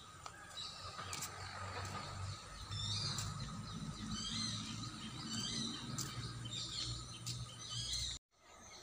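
Small birds chirping in trees, a run of short high calls repeating again and again, over a low steady rumble. The sound cuts out for a moment near the end.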